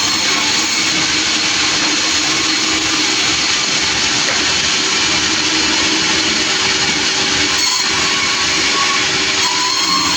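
Sawmill saw running: a steady, loud mechanical noise with a constant hum under it.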